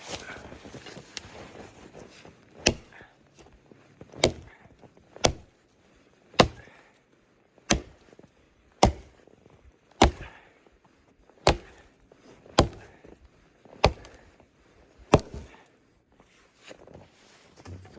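An axe chopping wood: about a dozen sharp blows, roughly one a second, starting a couple of seconds in and stopping a few seconds before the end.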